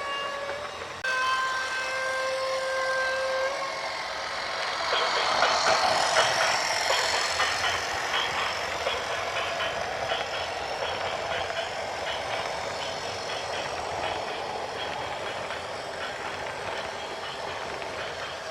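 A vehicle horn blows for about two and a half seconds, then a louder rattling, clattering din of heavy vehicles swells and slowly eases off.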